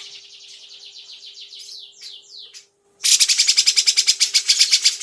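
A songbird singing: a soft, fast series of repeated high notes, a few quick falling notes near the middle, then after a short break a loud, rapid trill of repeated notes that runs on to the end.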